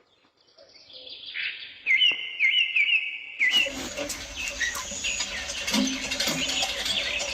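Birds chirping: after a near-silent start, one bird repeats a short chirp about twice a second. About halfway through, a dense chorus of many birds sets in abruptly.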